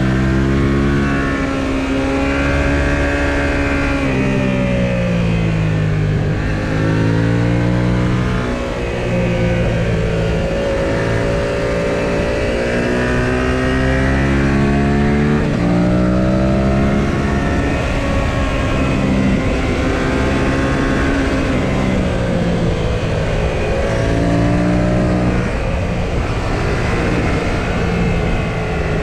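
Yamaha XSR700's 689 cc parallel-twin engine under way, its pitch rising and falling several times as the bike accelerates and slows, over a steady low rush of wind.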